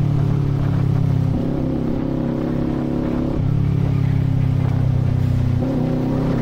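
Kawasaki Z400's parallel-twin engine running under way through an aftermarket muffler. Its note holds steady, then steps to a new pitch about a second and a half in, again near the middle, and again near the end.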